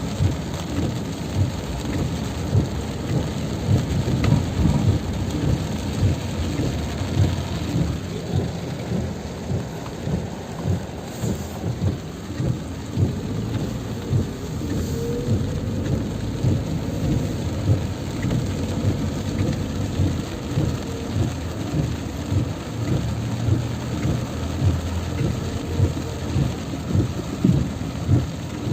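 Heavy tropical downpour: dense, steady rain with a low rumble.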